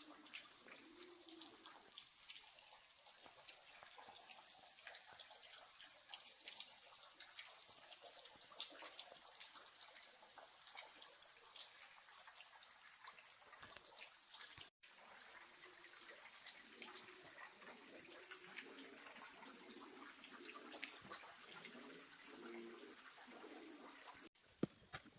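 Faint outdoor ambience of trickling, dripping water, with scattered small drips throughout.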